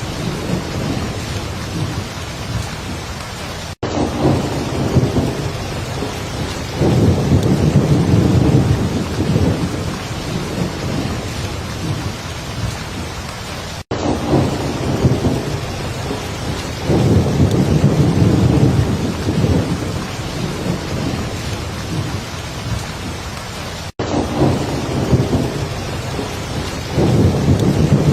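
Heavy rain falling steadily, with deep rolling rumbles of thunder swelling up every few seconds. The sound cuts out for an instant about every ten seconds and the same pattern repeats.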